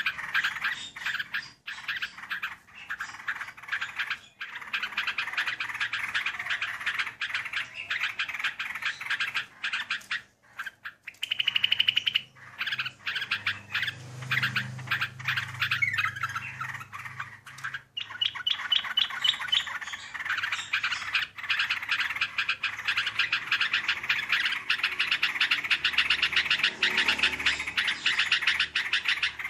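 Trucukan (yellow-vented bulbul) singing its long rolling song ('ngerol'), a fast chattering trill that runs on with only brief breaks, including one near the middle.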